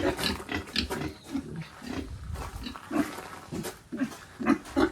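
An animal's short, irregular calls, repeated many times.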